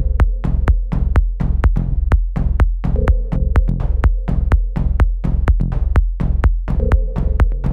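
Electronic dance track playing back: a steady drum-machine kick a little over two beats a second, with hi-hat ticks between the beats and a bass line under them.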